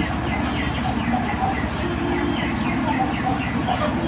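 Background bird chirping, many short falling chirps several times a second, over a steady low rumble.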